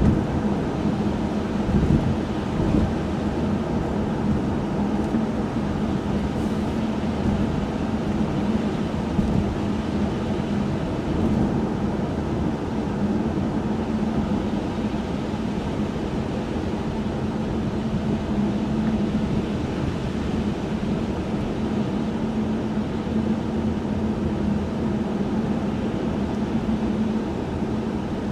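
Steady in-cabin driving noise of a 1995 Chevrolet Monte Carlo: a constant engine drone with a hum under a wash of tyre and road noise.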